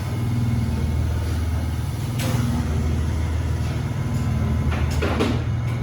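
Steady low mechanical hum, such as a running engine or shop machinery, with two brief noisy sounds about two seconds in and near the end.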